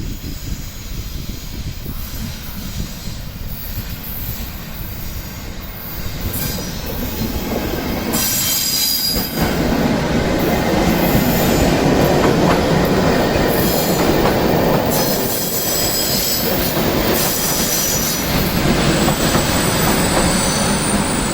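Class 460 electric multiple unit moving along the station track, growing louder partway through, its wheels squealing on the rails along with clatter over the rail joints.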